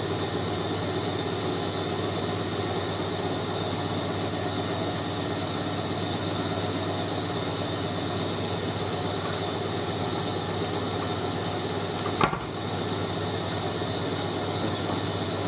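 Hoover A3060 Electronic 1100 front-loading washing machine running steadily mid-cycle, a continuous motor hum and sloshing noise, with one sharp click about twelve seconds in.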